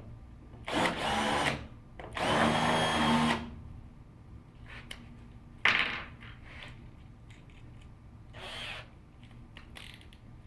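Power drill run in two short bursts of about a second each, the motor whining steadily under load, then a sharp knock and a brief fainter run near the end.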